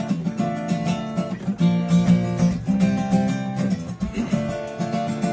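Music: an acoustic guitar strumming a repeating chord pattern, the song's instrumental intro.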